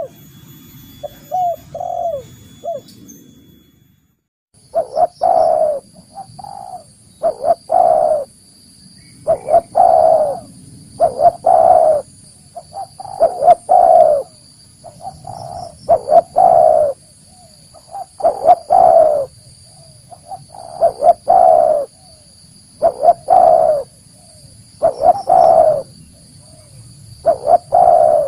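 Spotted dove (tekukur) cooing: short phrases of coos repeated about every two seconds. A brief gap comes about four seconds in, after which the recording continues with a faint steady high hum in the background.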